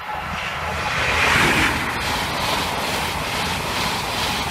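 High Speed Train passing at speed, a Class 43 diesel power car and Mk3 coaches. Its rushing roar of wheels on rail comes up suddenly and is loudest about a second and a half in.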